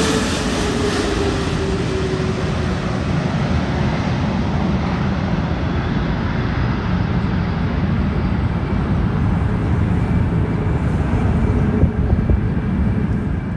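Boeing 777-300ER jet airliner's engines passing: a steady rumble with a whine that falls in pitch over the first few seconds.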